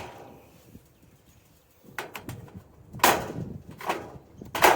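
Sharp metal knocks and clinks, about four, starting about two seconds in: cast aluminum nuggets being knocked out of their mold and handled.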